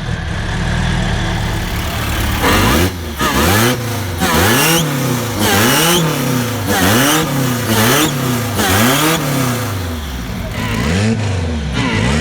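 Chevrolet Opala six-cylinder engine running loud, first steady for about two seconds, then revved about eight times in quick succession, each blip rising and falling in pitch about once a second, before settling back near the end.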